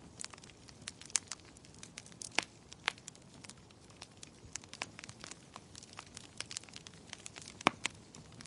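Wood fire crackling: irregular sharp pops and snaps, two louder ones about two and a half seconds in and near the end, over a faint low hiss.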